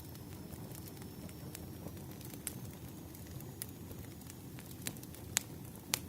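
Wood fire burning: a steady low rumble of flames with scattered sharp crackles and pops from the logs, the two loudest pops near the end.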